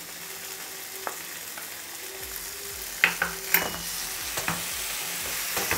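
Chopped tomatoes and onions sizzling in hot oil in a non-stick frying pan. About three seconds in, a spatula starts stirring them, scraping on the pan with a few sharp clicks.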